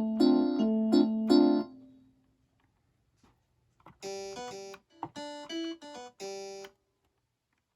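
Akai MPK Mini Play MK3 keyboard playing its built-in sounds. First a repeated electric-piano chord pattern dies away about two seconds in. After a pause, a second patch plays a few short phrases of plucked, guitar-like notes, which stop near the end.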